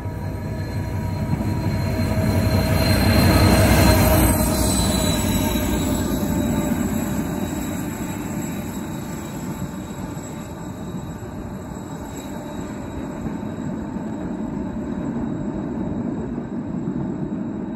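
A train running past, loudest about three to four seconds in, with thin high tones that fade as it passes, then a steady rumble.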